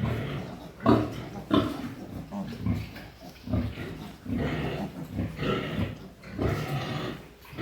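Pigs grunting, a string of short irregular grunts about once or twice a second.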